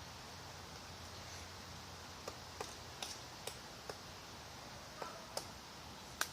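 Woodpecker pecking at wood: single sharp taps at irregular intervals, about nine of them, starting about two seconds in, with the loudest near the end.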